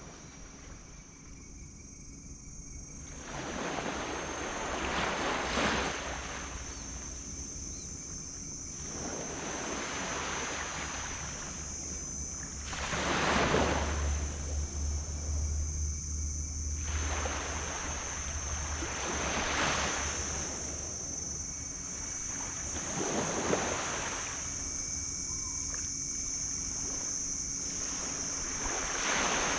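Small tropical waves breaking and washing up on a beach, a surge every four to six seconds, over a steady high-pitched whine. A low rumble runs under the middle part.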